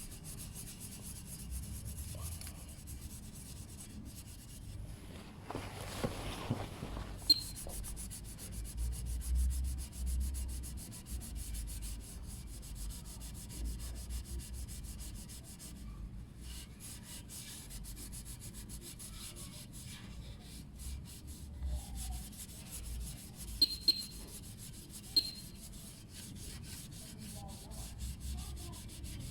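A scouring pad scrubbing a stainless steel motorcycle exhaust with fast, steady rubbing strokes, working off deposits softened with Harpic toilet cleaner. There are a few sharp clicks, once about seven seconds in and three times near the end.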